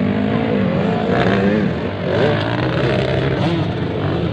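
Several motocross motorcycles racing, their engines revving up and down in overlapping, shifting pitches as they throttle through the course.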